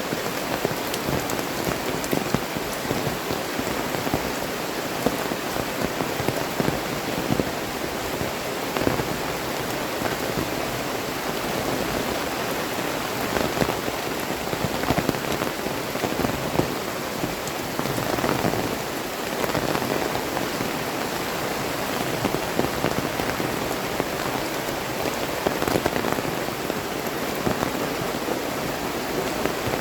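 Heavy tropical rain falling steadily, a dense hiss of drops spattering on surfaces.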